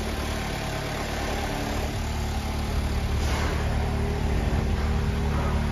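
2021 Jeep Wrangler's 2.0-litre turbocharged four-cylinder engine idling steadily.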